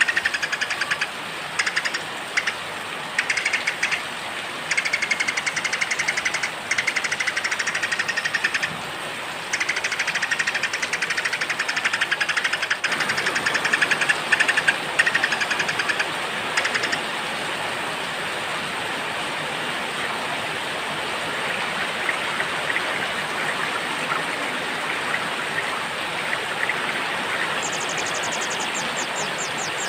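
Steady rain with small birds giving rapid, buzzy trills in stop-start bursts through the first half, then only the rain for a while. A fast, high ticking trill comes in near the end.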